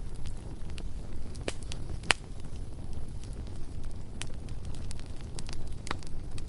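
Bonfire burning: a steady low rumble of flames with scattered crackles and sharp pops of burning wood, the loudest pop about two seconds in.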